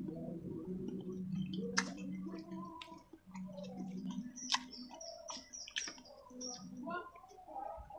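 Close-up eating sounds: chewing with wet mouth clicks and lip smacks, several sharp clicks scattered through, and a low humming sound in the first half that stops about four seconds in.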